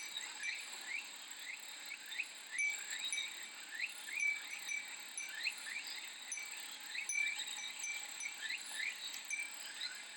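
Cicadas in a steady high-pitched chorus, with short chirping notes repeating about twice a second and the light tinkle of a Japanese fūrin glass wind chime.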